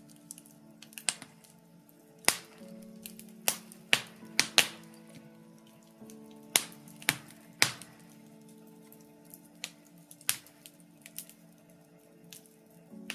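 Wood fire crackling: burning birch logs give irregular sharp pops and snaps, about a dozen loud ones, over soft sustained synth chords that shift about six seconds in.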